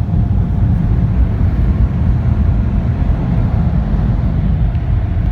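PDQ Max car wash air dryers blowing on their second pass, a loud, steady low rush of air heard muffled from inside the car.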